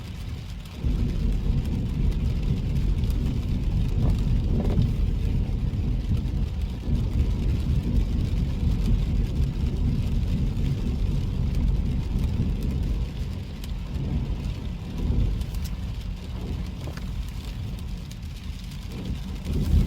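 Car driving: a steady low engine and road rumble that gets sharply louder about a second in, eases off somewhat later and swells again near the end.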